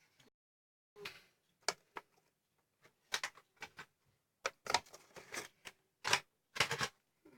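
Small die-cast toy cars being handled, giving irregular sharp clicks and clacks that come thicker about halfway through.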